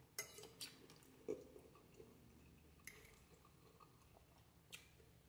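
Faint chewing of a mouthful of spaghetti with sausage, with about five brief wet mouth clicks and smacks spread across the few seconds.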